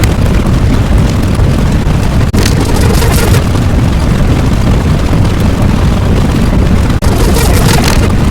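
Loud, continuous low rumbling sound effect, briefly cut off twice, about two seconds in and again near the end.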